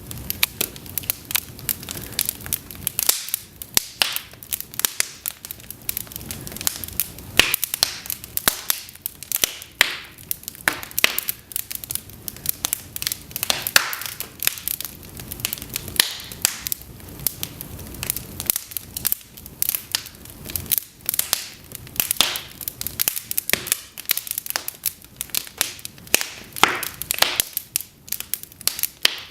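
Cedar logs burning in an open fireplace, crackling and popping with many sharp irregular snaps over a steady low hiss of flame.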